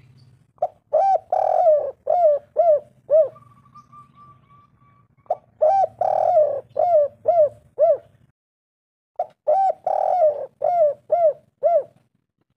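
Spotted dove cooing: three phrases about four seconds apart, each a run of about six mellow coos, with longer notes early in the phrase and shorter quick ones at its end.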